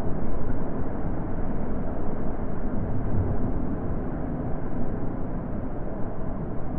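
Steady low wind rushing, gently swelling and easing, with no distinct events.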